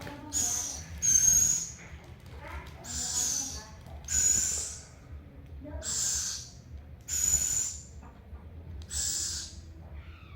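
Owl giving a run of hissing, screechy begging calls, about seven in a row, each under a second long: a hungry owl begging for food.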